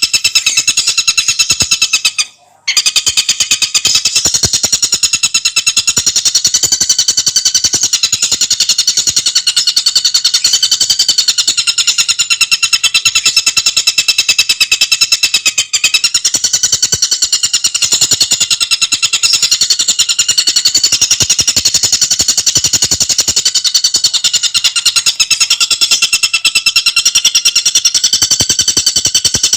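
Tengkek buto song: a fast, unbroken rattling trill of rapidly repeated high, ringing notes, with one short break a little over two seconds in.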